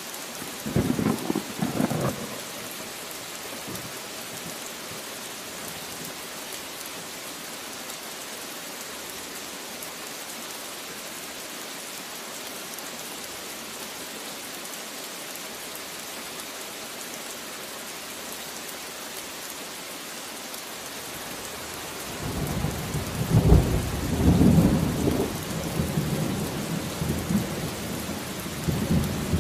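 Steady heavy rain with thunder: a short crack of thunder about a second in, then a long rolling rumble of thunder from about three quarters of the way through.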